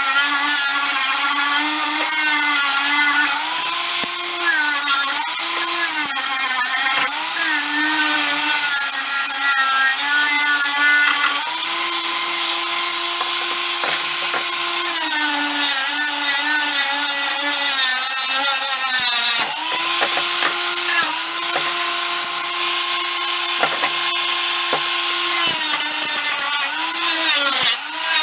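Handheld electric power tool running steadily with a whine whose pitch dips again and again as it is pressed into the work, over a scratchy rasping noise.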